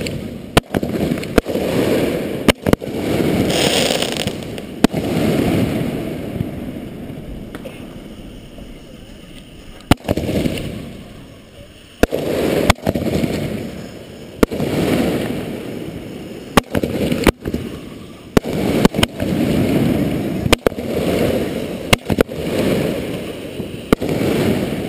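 Aerial firework shells firing in quick succession from a mortar rack: a series of sharp cracks every second or so, with rumbling booms between them. The firing thins out in the middle for a few seconds and then picks up again.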